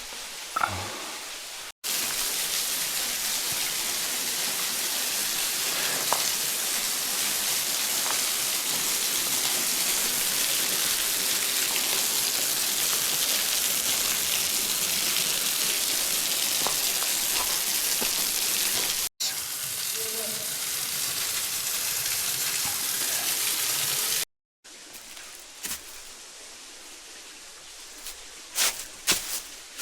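Waterfall: a steady, loud hiss of rushing and falling water, broken by two abrupt cuts. Near the end it drops to a much quieter background with scattered clicks and knocks.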